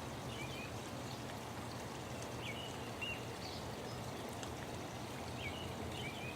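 Birds giving short, scattered chirps over a steady rush of running water.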